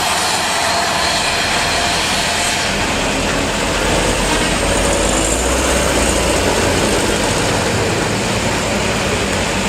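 Heavy truck engine running under a steady rushing road and wind noise, its low rumble growing stronger about three seconds in.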